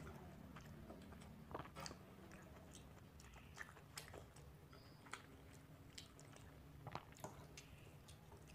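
Faint chewing of soft, water-soaked fermented rice (panta bhat), with a handful of short soft clicks as fingers work the wet rice on a steel plate.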